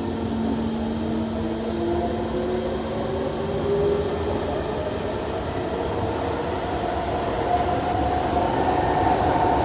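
Kawasaki C151 metro train heard from inside the car as it accelerates through the tunnel: the traction motors give a whine that rises in pitch over the first few seconds, then climbs again in a second higher step, over the steady rumble of the running train.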